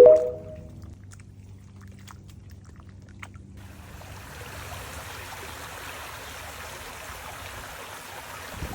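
Running water, a steady even rush that comes in abruptly about three and a half seconds in, after a music chord dies away.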